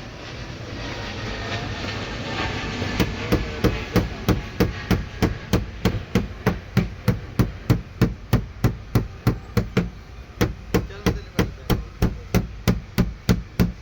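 Hand hammer tapping out a dent in a car door's sheet metal: a long, even run of sharp strikes, about three a second, starting about three seconds in.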